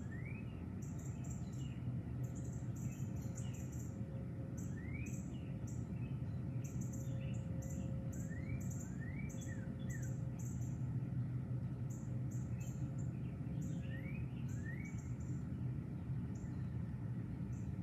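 Birds calling: short rising whistled notes every few seconds and many quick high chirps, over steady low background noise.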